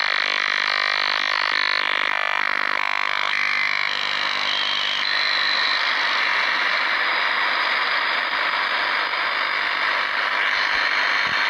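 Shortwave radio receiver audio of a strong, strange signal near 8.6 MHz: warbling, sweeping tones that repeat over and over for about three seconds, then give way to a steady rough hiss with a faint tone.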